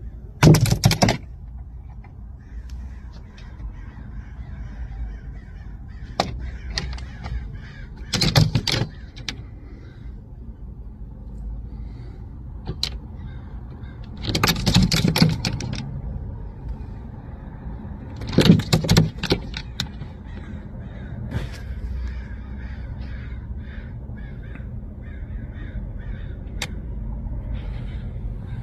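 Harsh, raspy animal calls in four loud bursts, each a quick run of several rough cries, over a steady low rumble.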